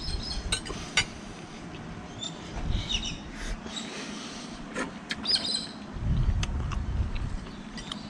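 Small birds chirping in three short bursts, over intermittent low rumbles and a few sharp clicks.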